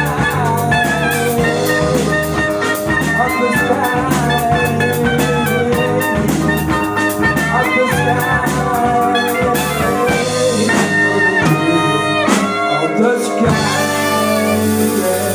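Jazz quartet playing an instrumental passage over a steady drum-kit beat. About ten seconds in the beat stops and the band moves into a few rising runs and then held chords.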